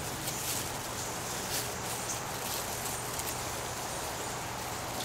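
Soft, scattered rustling of hands digging through damp potting soil in a container, over a steady outdoor background hiss.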